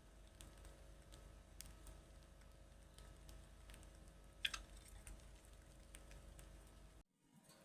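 Near silence with scattered faint light clicks and ticks, and one sharper, louder click about four and a half seconds in. The sound cuts out completely for a moment near the end.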